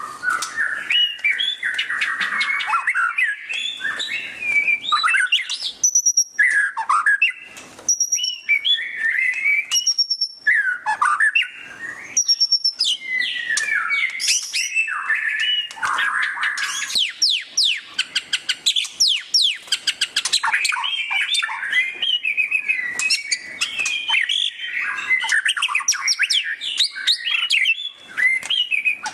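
White-rumped shama (murai batu) singing a loud, fast, varied song. It runs through quick chattering trills, rapid sweeping notes and high clear whistles, with only brief pauses. This is the rapid "ngeriwik" style used as a masteran training song.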